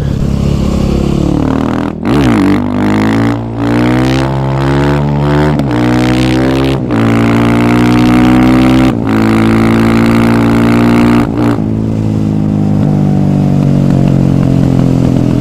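KTM 530 EXC supermoto's single-cylinder four-stroke engine pulling hard through the gears: the pitch climbs, then drops sharply at each of several quick upshifts, and holds fairly steady near the end.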